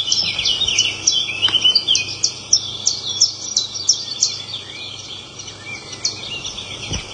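Red-billed leiothrix singing a loud, melodious warble of rapid, high chirping notes.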